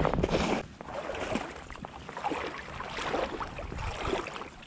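Creek water gurgling and splashing close by, with many small irregular splashes over a steady rushing wash.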